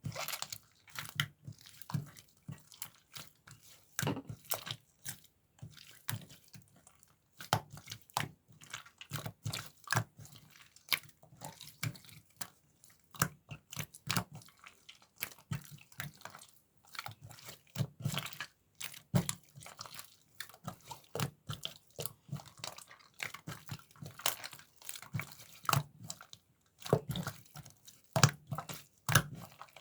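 Mint-chocolate slime being squished and played with by hand, making dense, irregular sticky clicks and pops.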